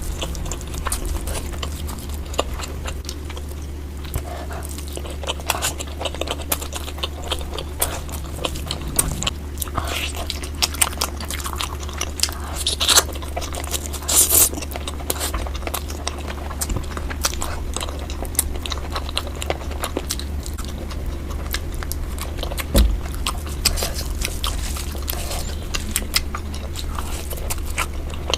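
Close-miked biting and chewing of tandoori chicken, sped up to double speed: a dense run of small clicks and smacks, a few louder ones about halfway through, over a steady low hum.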